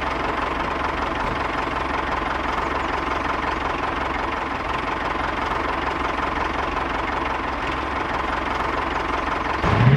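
Small motor of a homemade mini tractor or bulldozer running steadily. Just before the end, a louder rising whoosh cuts in.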